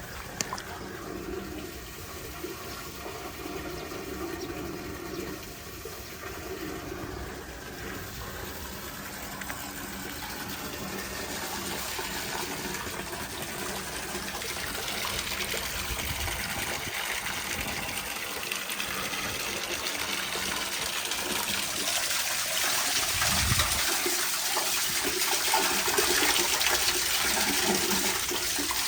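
Floodwater draining down a cleared street drain, a steady rush of water that grows louder and brighter over the second half.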